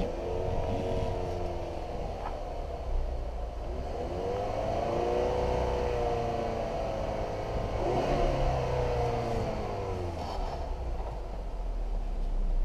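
2018 Ford Edge 2.0L turbocharged four-cylinder engine revved twice from idle: a short blip near the start, then a longer rev that climbs and falls back to idle.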